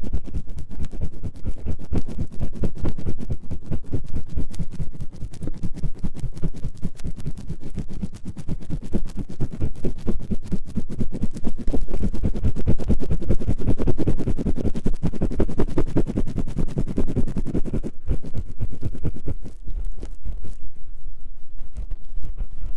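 Ear-cleaning tool scratching fast and vigorously inside the ear of a 3Dio binaural microphone: many rapid scrapes a second, close and heavy, with a brief break about eighteen seconds in.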